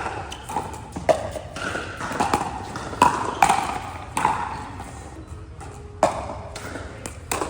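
Pickleball rally: paddles hitting a hard plastic pickleball in a string of sharp pops at an uneven pace, about a dozen in all, several with a brief ring, mixed with bounces on the court.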